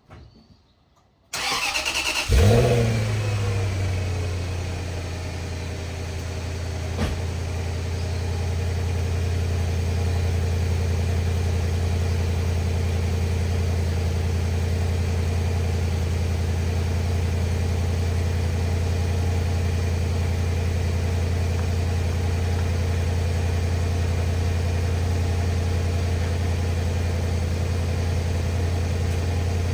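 A 2003 Range Rover HSE's engine cold-started, heard from its exhaust: about a second of starter cranking, then it catches with a brief flare in revs and settles into a steady fast cold idle.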